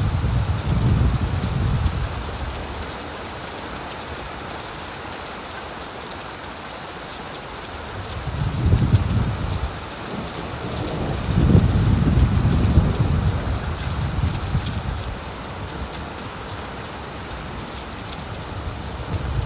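Heavy rain drumming steadily on an old tin roof, with three low rolls of thunder: one at the start, a short one a little before halfway, and a longer one just past the middle.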